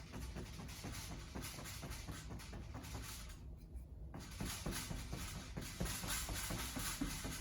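Faint scratchy rustle of a paintbrush working acrylic paint onto canvas, with small dabbing ticks. The rustle stops briefly about three and a half seconds in, then resumes.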